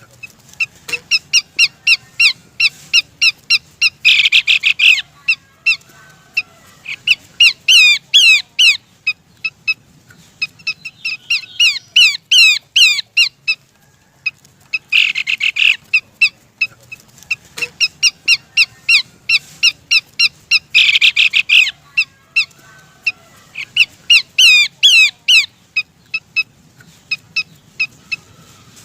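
Pelanduk semak babbler calling: rapid series of short, sharp chirping notes broken by bursts of fast slurred whistles, the phrases repeating over and over as in a bird-lure recording.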